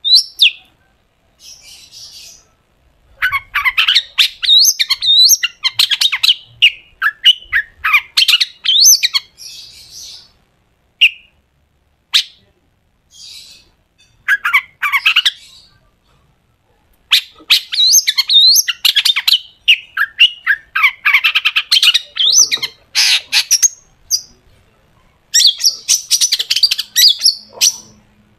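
Long-tailed shrike (cendet) singing in loud, rapid bursts of sharp, harsh notes and chirps, phrases a few seconds long broken by short pauses.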